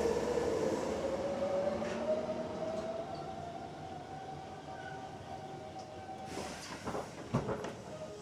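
Running sound inside a Hankyu 7300 series field-chopper-controlled electric train: the traction-motor tone rises in pitch as the train accelerates, levels off and fades out about six seconds in as power is shut off. A few knocks of the wheels over rail joints follow near the end.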